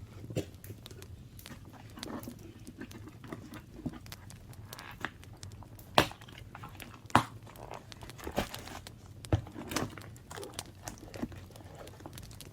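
Paper being handled, crinkled and rustled during scrapbook work, with scattered small taps and clicks; two sharper knocks stand out about six and seven seconds in.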